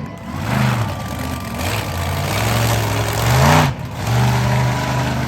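Monster truck engine revving hard in repeated bursts, with a heavy exhaust rush loudest about three and a half seconds in.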